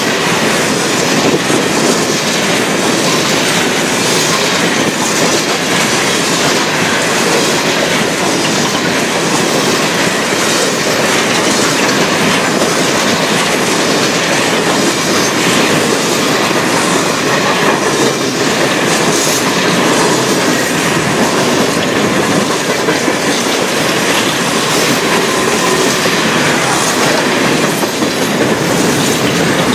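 Freight train of covered hopper cars rolling past close by: a steady rumble of steel wheels on rail, with the regular clickety-clack of wheels over rail joints.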